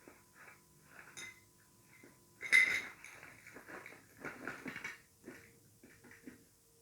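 Slate pencil being bitten and chewed close up: a sharp snap about two and a half seconds in, amid a run of short, dry crunches.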